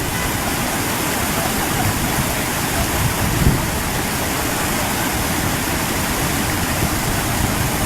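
Floodwater rushing, a steady loud rush of water.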